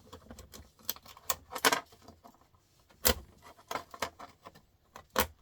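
Small screwdriver working inside a small printer motor's metal casing: irregular metallic clicks and short scrapes, with sharper clicks about a second and a half in, about three seconds in, and near the end.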